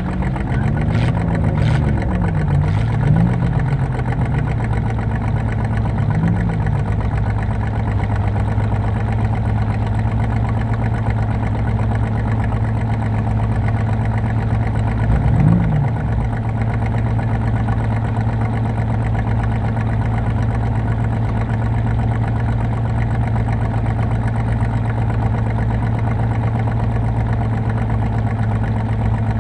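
Car engine idling steadily, with a few brief revs that rise and fall in pitch in the first several seconds and once more about halfway through.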